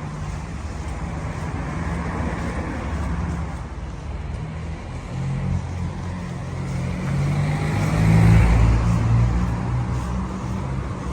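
Road traffic passing on a highway: one vehicle goes by about two seconds in, and a louder one with a deep engine hum passes about eight seconds in.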